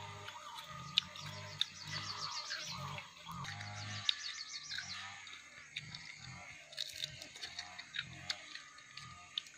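Close, wet chewing and crunching of grilled insects, with mouth smacks and sharp crunches, the loudest about a second in and again about four seconds in. Fast, high chirping trills sound in the background twice.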